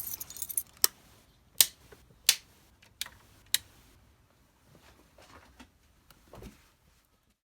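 Several sharp clicks, about five in the first few seconds, followed by softer light clattering of small hard objects.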